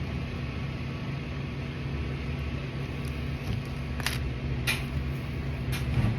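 Steady low mechanical hum in the background, with a few short sharp clicks about four seconds in, around four and a half seconds and near the end as the gas siphoning tool is handled and set up.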